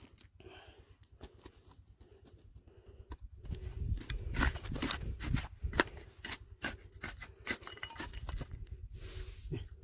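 Stones and gravel scraping and clicking as someone digs in a riverbed for gold; quiet at first, then a run of sharp clicks and scrapes from about four seconds in.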